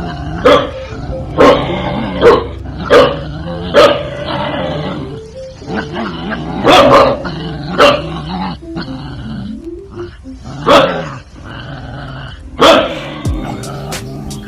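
Dog barking repeatedly, single loud barks at uneven intervals with pauses between, over background music.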